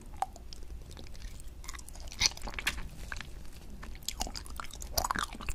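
Close-miked mouth sounds of a person biting and chewing candy from a toothpaste-style squeeze tube. The crunching comes in irregular sharp clicks, loudest about two seconds in and again near the end.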